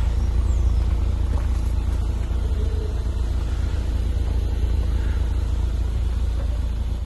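BMW Z4 E85's engine idling steadily with a deep, even rumble, cut off suddenly at the end.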